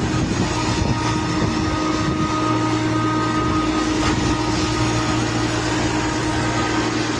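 Steady mechanical drone: an even rushing noise with a constant low hum and a few fixed tones underneath, unchanging throughout.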